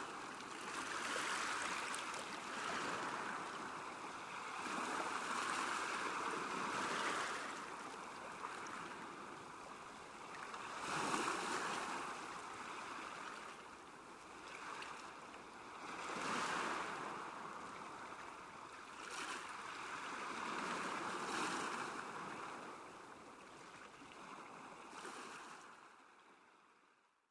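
Small waves washing against a lake shore, swelling and ebbing every few seconds, fading out near the end.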